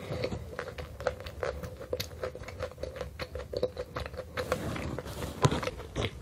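Close-miked chewing of a Starbucks Halloween macaron: an irregular run of small crisp clicks, several a second, with a slightly louder one near the end.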